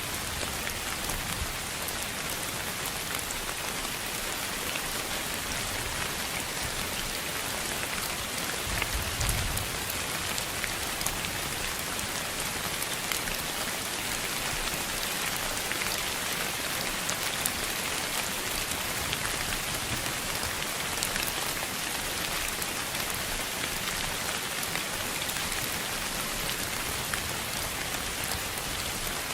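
Steady rain on a surface: an even hiss dotted with many small drop ticks. A short low rumble comes about nine seconds in.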